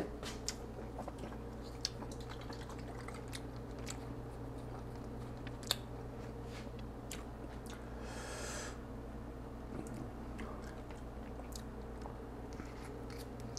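Quiet chewing of a mouthful of ground turkey, rice and fried egg, with scattered faint mouth clicks over a steady low hum. A brief soft hiss comes about eight seconds in.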